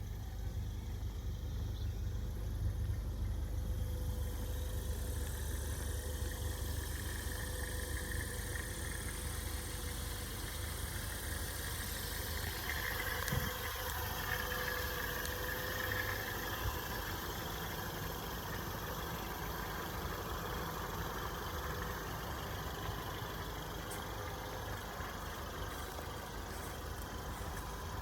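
Vehicle engine idling steadily, with a faint steady tone above the low engine sound.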